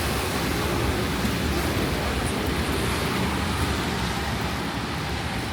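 Steady hiss of rain and wet-street traffic: cars and tyres passing on rain-soaked city streets.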